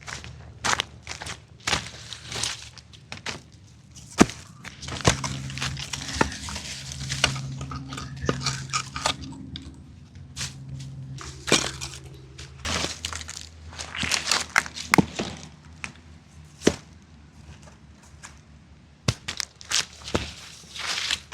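Dry sticks and twigs cracking and snapping, many irregular sharp snaps. A low steady hum lies under them for several seconds in the middle.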